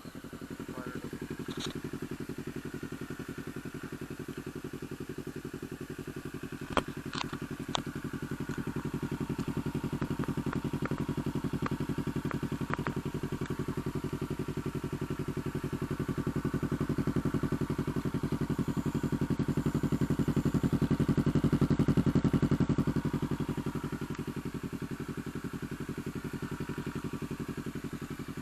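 Kawasaki Ninja 650's parallel-twin engine, breathing through a Mivv Mk3 aftermarket exhaust, running steadily at low revs. There are a few sharp clicks about 7 seconds in, and the sound swells a little louder around 20 seconds in.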